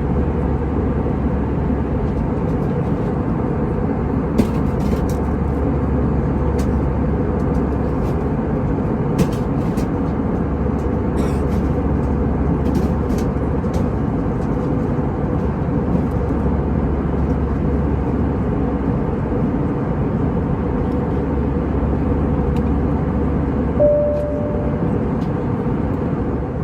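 Steady drone inside the cabin of an Airbus A320-214 in flight: the noise of its CFM56 engines and the airflow. A few faint clicks sound, and a short single tone comes near the end.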